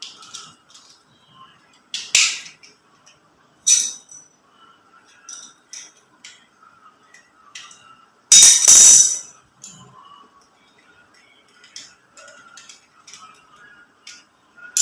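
Small plastic toy parts clicking, tapping and clattering as pieces are handled and fitted together, with a louder, denser rattle of about a second roughly eight seconds in.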